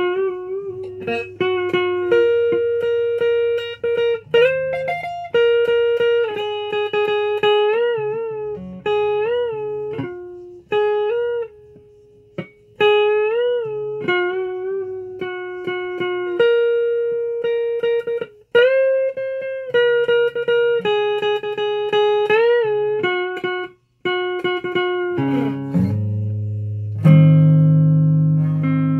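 Guitar playing a single-note melody, many notes bent up and back down in pitch, with lower bass notes coming in near the end.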